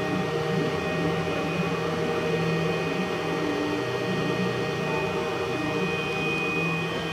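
Homemade ultrasonic mist maker with its small fan running: a steady hum and whirring hiss that holds unchanged.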